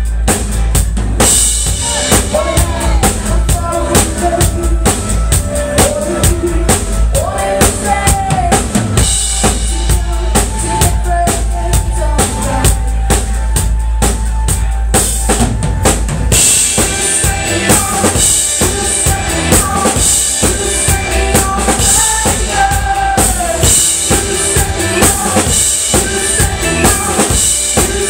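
Live band playing a pop-rock song: a steady drum-kit beat with kick and snare over bass and melodic lines. The cymbals grow brighter about halfway through.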